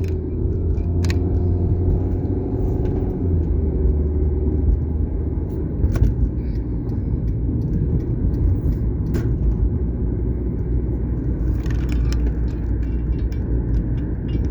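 Car being driven, with a steady low engine and road rumble and a few brief clicks.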